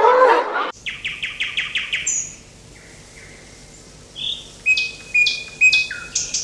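Songbird chirping: a quick run of short high chirps, a lull, then a few sharper repeated calls near the end.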